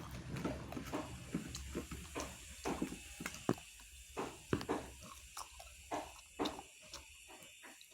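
A person eating curry and rice by hand and chewing: faint, irregular small wet clicks and smacks, fewer toward the end.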